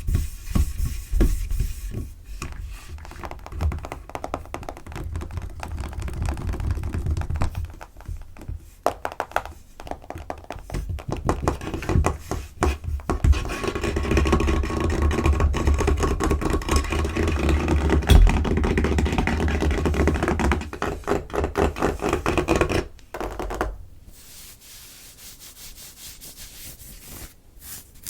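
Fingers tapping and scratching fast on a tabletop: dense, rapid taps and scrapes over dull thumps. Near the end it drops to softer, quieter rubbing.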